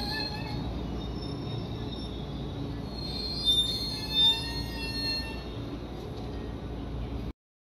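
JR West 221 series electric train moving slowly alongside the platform, its wheels rumbling and squealing, with two short louder squeals about three and a half and four seconds in. The sound cuts off suddenly near the end.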